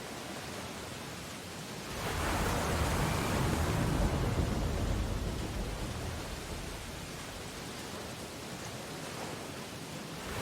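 Ocean surf on a beach: a wave comes in and breaks about two seconds in, then washes out and eases over the next few seconds.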